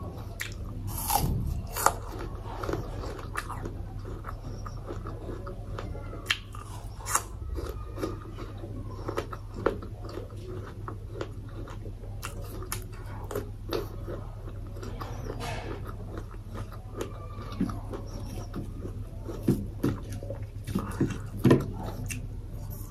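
Close-miked mukbang eating: biting and chewing crisp apple slices and soft boiled carrot, with irregular wet mouth sounds and crunches over a low steady hum. The loudest bites come near the end.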